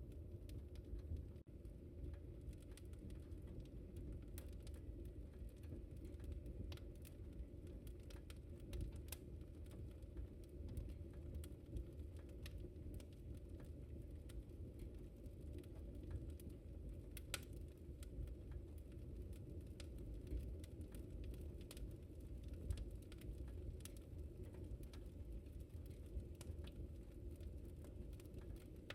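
Wood fire in a fireplace crackling: a steady low rumble of flames with scattered sharp pops and snaps, a louder pop about seventeen seconds in.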